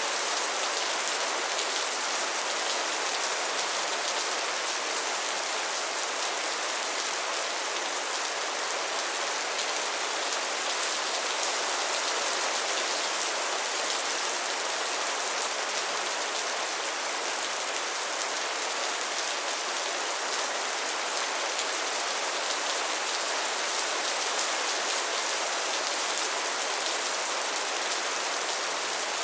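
Steady rain falling, an even hiss of many fine drops with no breaks or changes.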